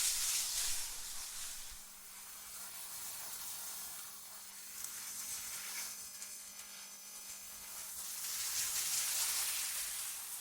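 Synthetic wind noise, a high hiss that rises and falls in slow gusts: loud at the start, dropping after about two seconds, then swelling again near the end. Faint steady tones sit underneath.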